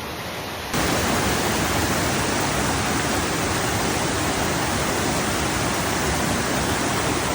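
Steady rush of falling water from a small waterfall, which gets suddenly louder and fuller under a second in.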